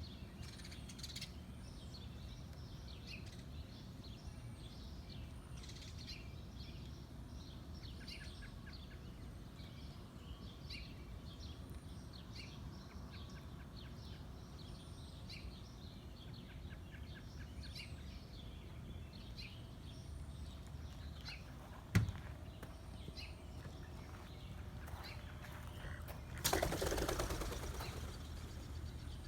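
Small birds chirping and calling on and off throughout, over a low steady background hum. A single sharp click about three quarters of the way through, then near the end a louder rushing noise that lasts about two seconds and fades.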